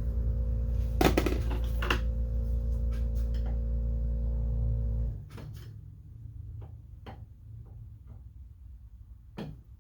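A motor hums steadily and cuts off suddenly about five seconds in. Knocks sound over it, and light clicks and taps of small metal parts follow once it stops.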